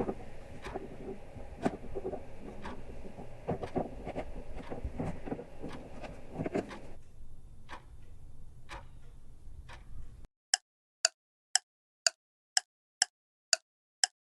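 Clock ticking: faint, even ticks about once a second over a low background hiss, then from about ten seconds in, crisp, clean ticks about twice a second with nothing behind them.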